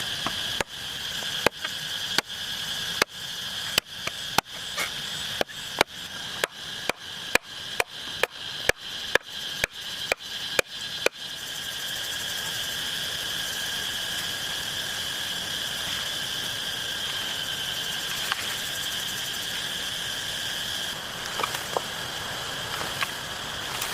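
A run of sharp chopping strikes into wood or bamboo, getting faster from under two a second to over two a second. They stop about eleven seconds in. A steady high-pitched drone runs underneath throughout.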